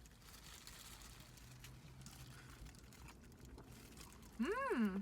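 Faint crinkling and rustling while eating with food handled in hands, then, about four seconds in, a short loud voiced vocal sound that rises and falls in pitch.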